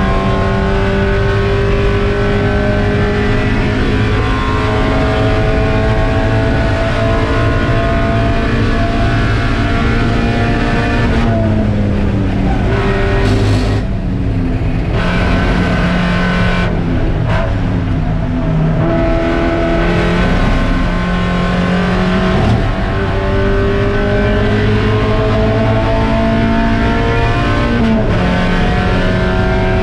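Spec Miata's four-cylinder engine racing at high revs, its pitch climbing slowly for about ten seconds. It then drops, with the pitch stepping down and changing several times as the driver lifts off, before it climbs again under acceleration with a quick break in pitch near the end, like a gear change.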